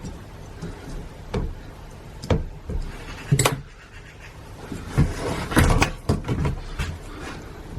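Hand work on a disassembled electric starter motor: irregular knocks and clicks of metal parts and tools being handled, with a longer rubbing, scraping noise about five seconds in that is the loudest part.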